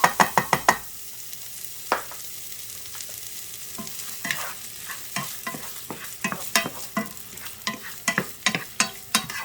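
Onions sizzling as they fry in a skillet, a steady hiss, while a utensil clicks and scrapes against the pan as they are stirred. A quick run of about six taps opens it, and the clicks come irregularly again from about four seconds in.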